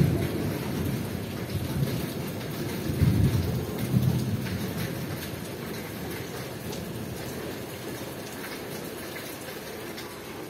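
Rain falling steadily on a paved courtyard and trees, an even hiss. Low rumbling swells come in the first few seconds, strongest a little after three seconds in, then die away.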